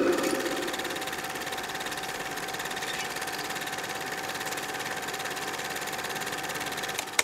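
Small machine running with a fast, even clatter over a steady hum. It ends with a sharp click and then cuts off.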